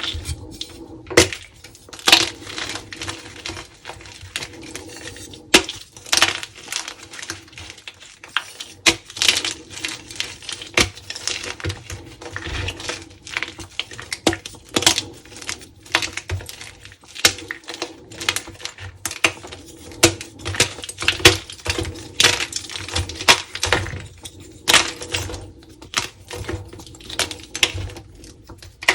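Blocks of dyed gym chalk being crumbled and crunched: a continuous run of irregular dry crunches and sharp snaps.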